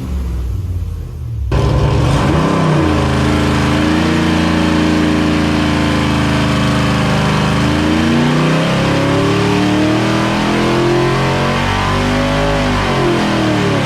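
Stroked 7.0-litre (427 ci) iron-block LS V8 running under load on an engine dyno. About a second and a half in, the throttle opens sharply: revs rise, hold steady, drop near eight seconds and climb again. It is running rich, with no ignition timing added, on a base-numbers pull.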